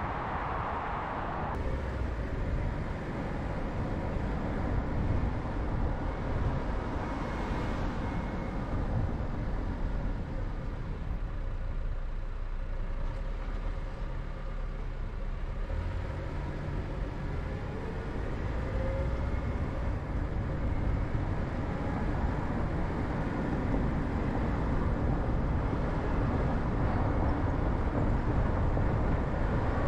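Car driving on a road: steady engine and tyre noise, growing a little louder in the last third.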